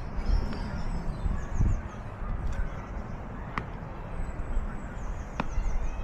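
Wild birds singing, twice a quick series of short high notes falling in pitch, over a constant low rumble and a few sharp clicks.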